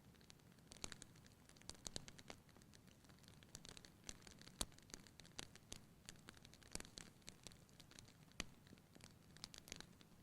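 Wood fire burning in a fireplace: quiet, irregular crackles and sharp pops over a soft hiss, with one louder pop near the middle.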